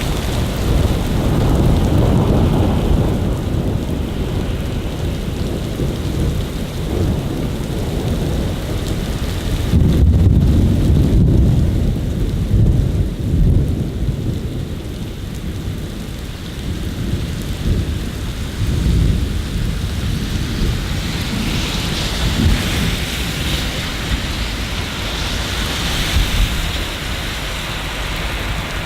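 Steady rain hissing, with long low rolls of thunder rumbling underneath, loudest about ten seconds in.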